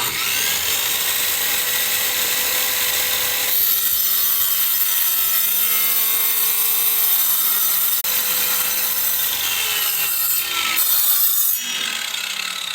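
Electric power saw cutting a replacement ceramic floor tile: the motor comes on suddenly with a rising whine and then runs steadily under the cut, its pitch dropping and changing as the blade works through the tile.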